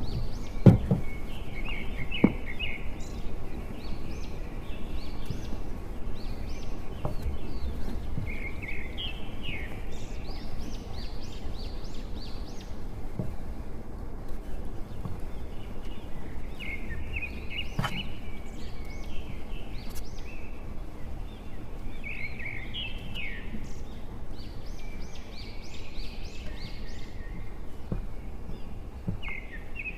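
Birds singing in short bursts of quick chirping trills that come and go throughout, over a steady low rumble, with a few sharp clicks.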